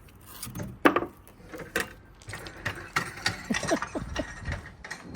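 Tools and metal parts being handled on a workshop bench: a run of light clinks and knocks, the sharpest about a second in.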